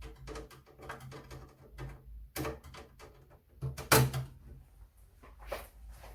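Rapid small clicks, taps and knocks of a screwdriver and loose screws on a Compaq Portable computer's case as its cover screws are taken out, with one louder knock about four seconds in.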